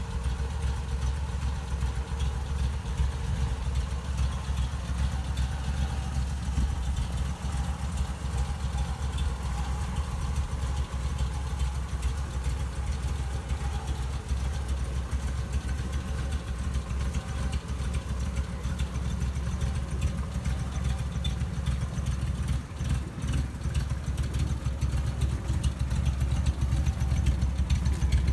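1967 Triumph Spitfire MKII's small four-cylinder engine idling steadily, with no revving.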